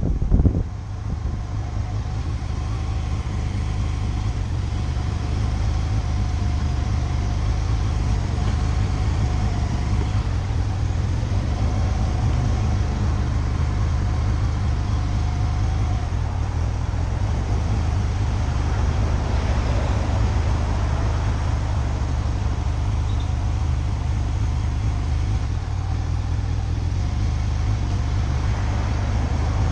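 Motorcycle running steadily on the road, a low engine hum with road noise. Heavy wind noise on the microphone drops away about half a second in.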